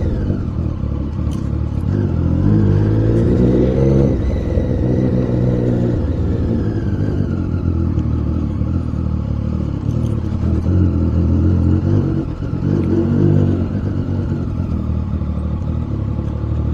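Triumph Daytona 675's three-cylinder engine under way, its note climbing in pitch twice as it accelerates and dropping back between.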